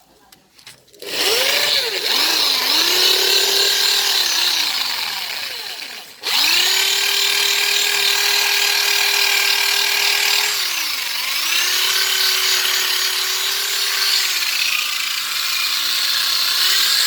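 High-speed electric rotary tool grinding out a moped carburettor's bore. Its motor whines as it spins up about a second in, winds down and starts again near the middle, and its pitch sags briefly a few times as the bit bears on the metal.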